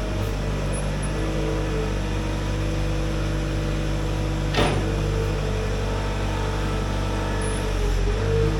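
Skid steer engine running steadily, with one sharp knock about halfway through.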